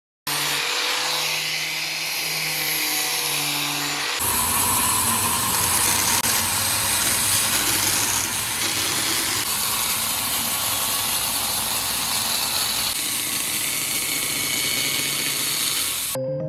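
Electric power tool working hardwood: a steady motor hum under a harsh, even noise that grows louder and fuller about four seconds in, then cuts off sharply near the end.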